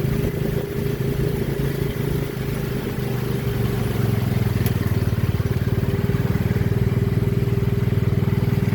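Motorcycle engine of a three-wheeled motorcycle taxi running as it is ridden through traffic, heard from the passenger seat on the back. About four seconds in it settles into a steadier, slightly louder drone.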